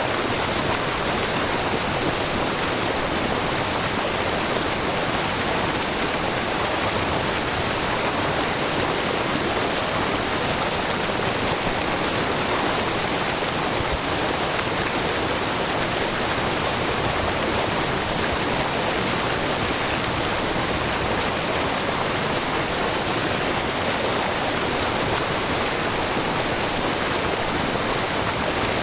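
Shiraito Falls, a wide, low curtain waterfall of many thin streams of spring water, falling and splashing steadily.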